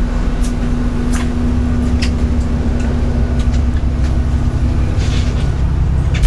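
Steady engine and road drone heard from inside a moving coach, with a low hum and scattered light rattles and clicks. The hum fades out near the end.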